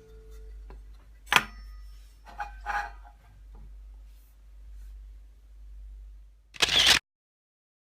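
Handling noises: a few scattered clicks and knocks, the loudest about a second and a half in, over a low steady hum, then a short rustling burst near the end before the sound cuts off abruptly.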